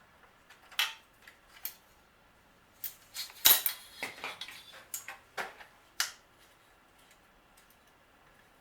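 Metal tools and bicycle parts clinking, a string of sharp clicks and knocks during parts removal, the loudest about three and a half seconds in, fading to faint ticks near the end.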